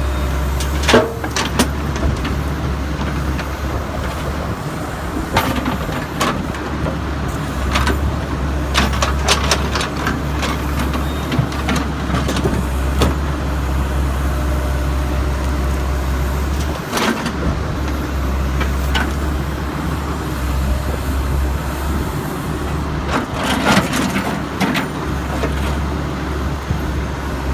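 Backhoe's diesel engine running steadily while loading broken concrete, with scattered clanks and knocks of concrete chunks and the bucket: a sharp one about a second in and a cluster of them near the end.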